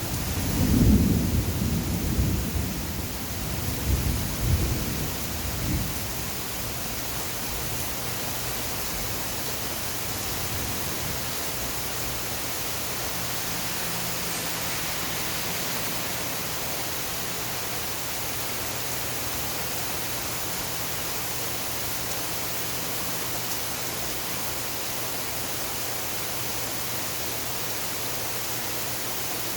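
Rain falling steadily as an even hiss. A low rumble of thunder swells and fades over the first six seconds.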